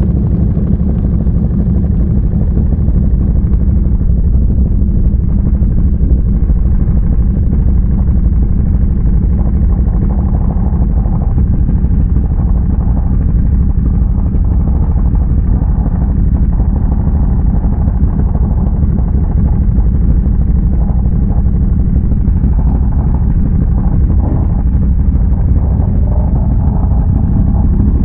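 ATV engine running steadily while riding, a dense low drone at a fairly even level.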